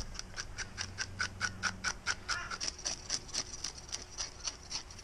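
Knife scraping the scales off a whiting in quick, even strokes, about four a second.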